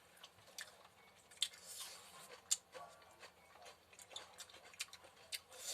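Eating sounds: irregular sharp clicks and crunches, about one or two a second.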